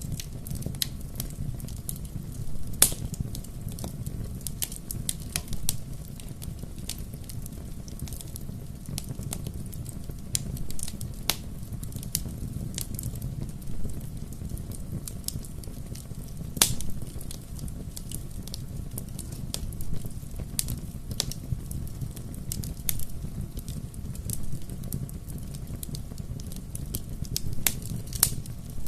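Bonfire crackling and popping over a low steady rumble of flames, with many irregular snaps and two sharper pops, about three seconds in and near the middle.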